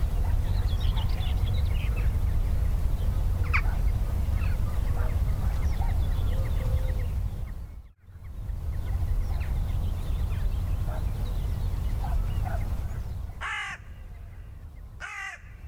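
Steady low rumble with faint bird chirps, cut off briefly about halfway through, then two loud, harsh bird calls near the end.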